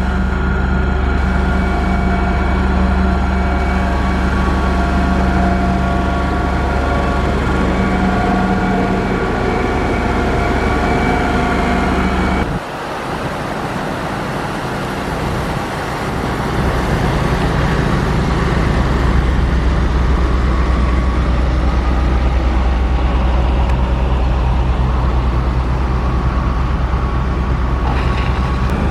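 Motor grader's diesel engine running steadily under load. About halfway through, the low rumble drops away sharply for a few seconds, then builds back up.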